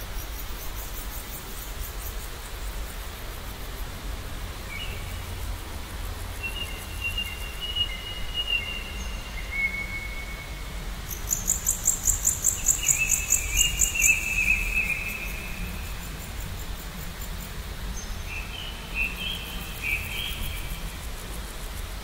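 Birds singing in long, even whistled notes, with a very high, rapidly pulsing trill that is loudest about halfway through, over a steady low rumble.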